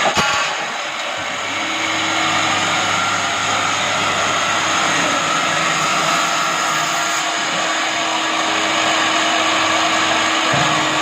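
Multi-head drilling machine running with a steady motor whirr and a held tone, just after a short knock at the start.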